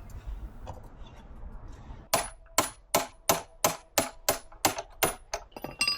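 About a dozen sharp metallic taps, roughly three a second, each with a brief ringing tone, from tool work on the scooter's front wheel axle. They start about two seconds in.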